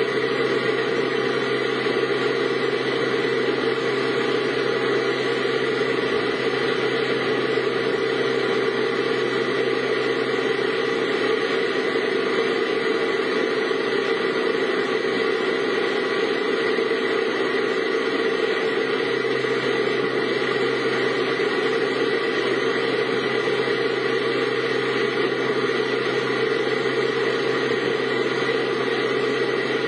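Steady vehicle cabin noise: a car's engine hum and road noise holding an even drone without change.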